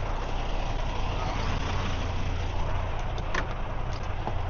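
Semi-truck's diesel engine idling steadily, with a faint click about three seconds in.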